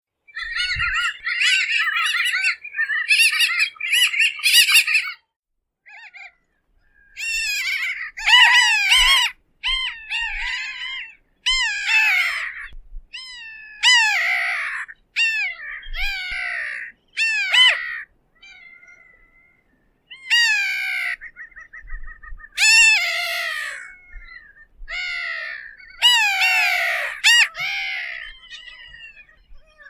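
Bridled terns calling: a rapid chattering run of calls, then a series of harsh calls that fall in pitch, given in bursts with short pauses between them.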